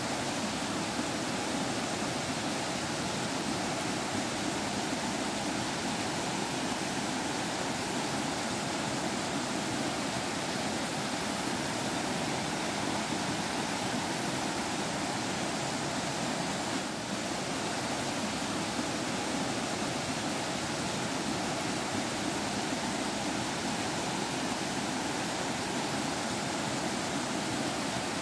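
Forest stream water flowing and trickling over rocks, a steady babbling rush with one brief slight dip in level about two-thirds of the way through.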